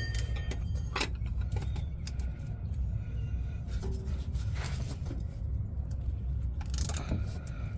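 Old oil filter being worked loose on a truck's engine: scattered short clicks and scrapes of hands and metal on the filter, over a steady low rumble.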